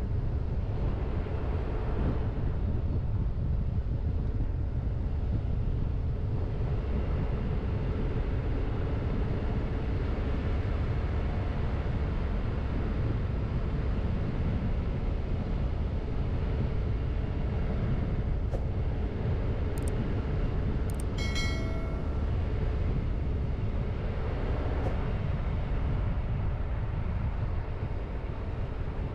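Car driving: a steady low rumble of engine and tyres on the road. A few faint clicks and one short high-pitched tone come a little after the middle.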